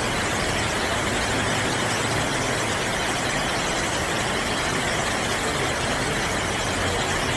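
Steady hiss of heavy rain, with a low vehicle engine rumble underneath.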